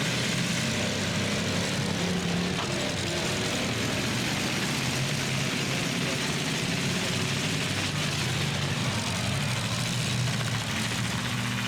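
Engines of several demolition-derby trucks running together in a steady, unbroken drone, with no sharp crashes.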